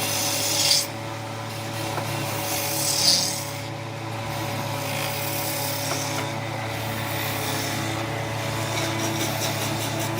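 Rasping strokes on wood, with a louder stroke near the start and another about three seconds in, over a steady low hum.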